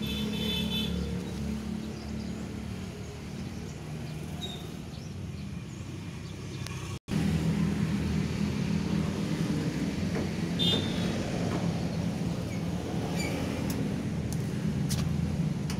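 Steady low machine hum with a few light metallic clicks as bolts are undone from the dryer's back cover. The hum drops out for an instant about halfway through and comes back louder.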